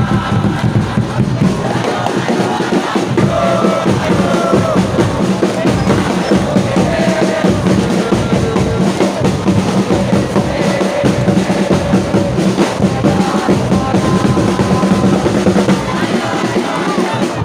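Football supporters' drums beating steadily while a crowd of supporters sings a chant along with them.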